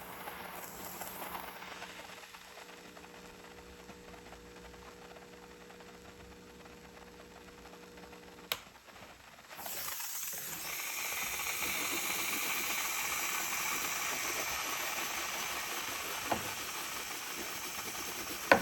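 Black & Decker steamer hissing out a steady jet of steam, starting about halfway in after a click and carrying on to the end; a faint steady hum fills the quieter first half.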